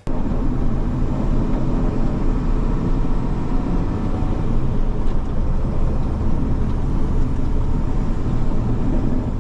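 Heavy machine's engine running steadily: a continuous low rumble.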